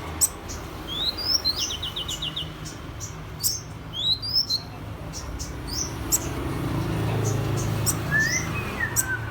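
A sunbird singing: short, sharp high chirps and sweeping notes, with a quick trill of about six notes early on and a lower phrase near the end, in the style of a magpie-robin's song. A low hum in the background grows louder after the middle.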